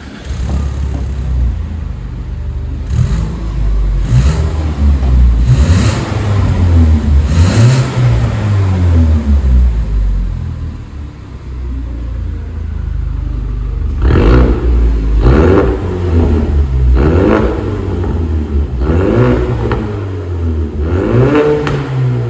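Ford Mustang 2.3 EcoBoost turbocharged four-cylinder revved in repeated blips through a custom mid-pipe and valved variable exhaust. It settles back toward idle for a few seconds near the middle, then blips again more quickly, about one a second.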